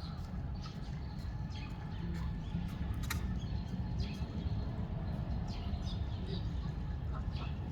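Scattered short, high bird calls, a few every second, over a steady low rumble that is the loudest thing throughout.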